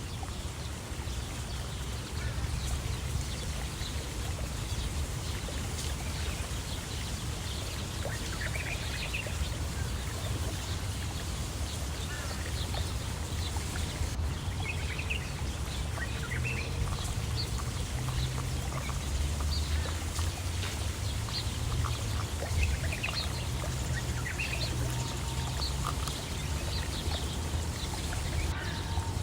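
Birds calling outdoors, many short scattered calls, over a steady low rumble.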